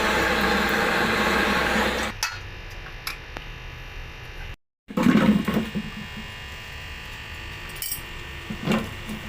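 Workshop sounds: a steady machine-like noise with a hum that stops about two seconds in, then, after a short gap, a loud knock and a few light metallic clanks and clicks of metal objects being handled.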